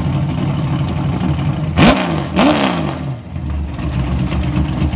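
Drift-built Corvette's V8 idling with a steady, uneven rumble, blipped twice about two seconds in: each rev shoots up and falls straight back, with a loud crack from the exhaust.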